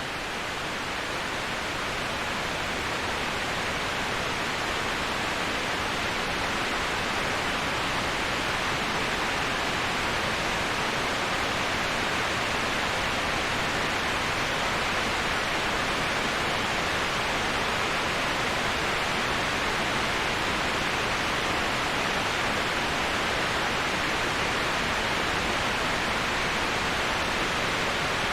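Waterfall: a steady, even rush of falling water with no distinct splashes or changes, growing a little louder over the first few seconds.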